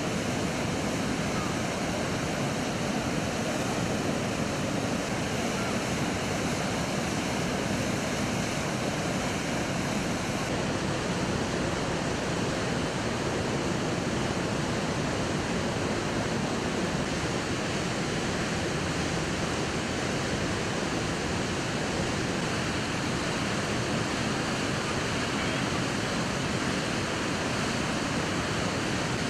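Steady rushing of muddy floodwater at the Düden Waterfall, its flow swollen by heavy rain and running fast.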